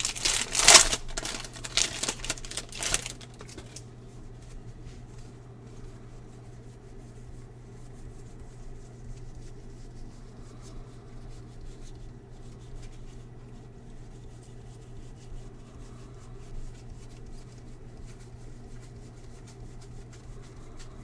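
Crinkling and tearing of a trading-card pack's foil wrapper for the first three or four seconds, then faint handling of cards over a steady low hum.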